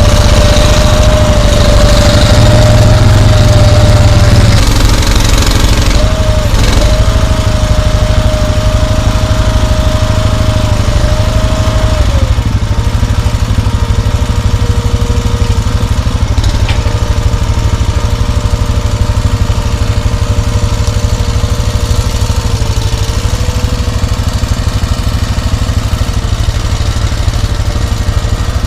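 Small utility ATV engine running steadily, with a steady whine that steps down in pitch about twelve seconds in.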